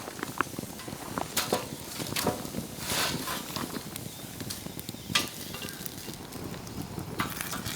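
Sausage and rice-cake skewers sizzling over a wood fire in a fire pit, with irregular sharp crackles and pops from the burning wood.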